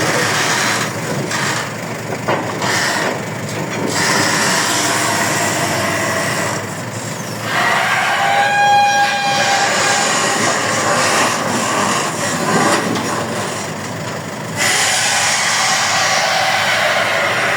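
Long-arm excavator working, its engine and hydraulics running, while the dry boom and arm joints groan and squeal, with one clear drawn-out squeal about halfway through. The squeal is the sign of pivot pins lacking grease.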